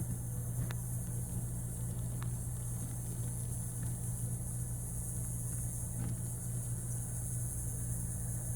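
Steady low mechanical hum, like an idling engine or traffic, under a steady high hiss, with a few faint clicks.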